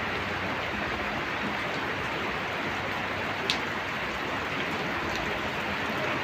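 Steady rain falling, an even hiss, with a single sharp tick about three and a half seconds in.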